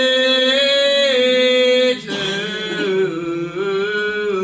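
Gospel singing in church: a voice holds one long steady note, then moves down to a lower, slightly wavering note about two seconds in, drawing out the line "from the door of the tomb".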